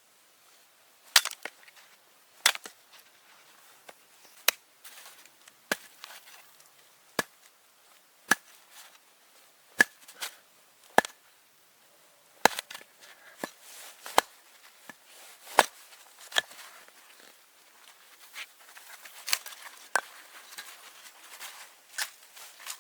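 Wood being chopped with an edged tool: a run of sharp, separate chopping strikes, about one every second or so at an uneven pace.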